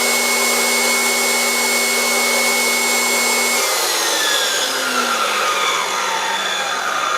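Shop-made contractor's table saw running free at a steady high whine, then losing power about three and a half seconds in and winding down, its pitch falling as the blade coasts toward a stop.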